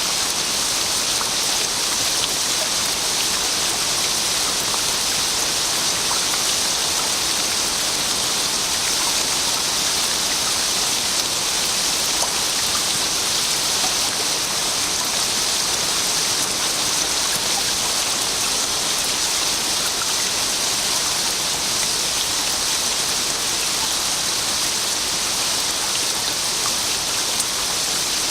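Steady rain falling, an even hiss with fine scattered drop patter and no letting up.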